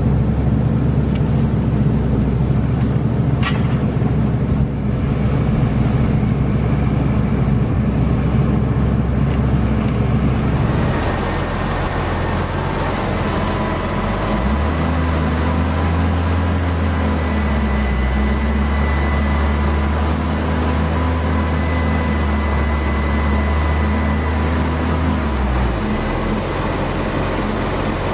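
T-150K tractor's diesel engine running under load. It holds a steadier, higher note for most of the second half before easing back near the end.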